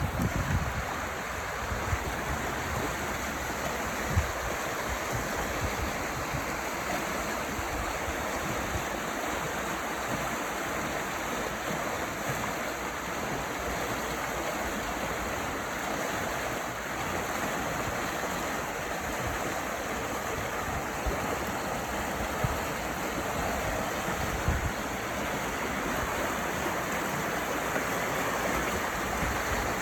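Steady rush of running stream water, an even hiss with no break, with a few brief low thumps near the start and twice later.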